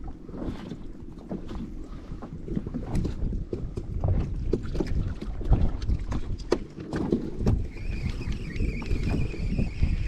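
Waves slapping a fishing kayak's hull in a heavy swell, with wind rumbling on the microphone and many short knocks against the boat. From about three-quarters of the way in, a steady high whine joins in.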